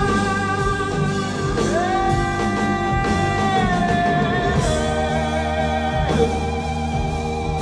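Rock band playing live, with guitars, bass and drums. A long held melodic note slides up about a second and a half in, holds, then bends down before the band settles into a steady chord.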